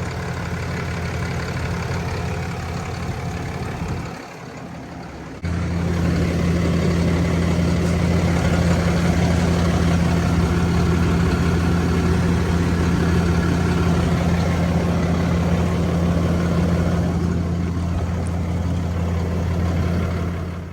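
A Ram 5500's 6.7L Cummins turbo-diesel inline-six idling steadily, just restarted after a fresh oil change and fuel filter change. It gets abruptly louder about five seconds in and then holds steady.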